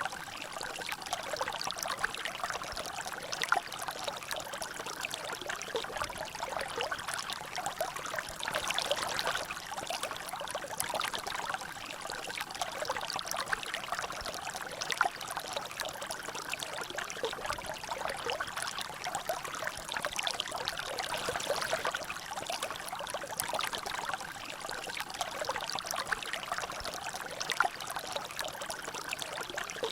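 Water trickling and dripping in a natural drainage channel: a steady splashing flow with many small irregular drops falling into it.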